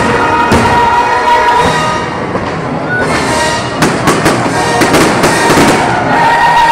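Fireworks going off over loud show music: a rapid run of sharp bangs and crackles about halfway through, with held music notes before and after.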